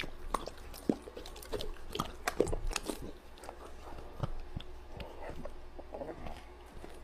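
Dog chewing: irregular crunching clicks, busiest in the first three seconds, then sparser.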